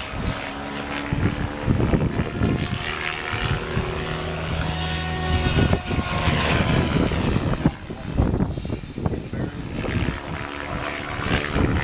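Radio-controlled helicopter in flight: rotor and drivetrain running with a steady high whine that dips slightly midway and comes back up, mixed with heavy wind buffeting the microphone.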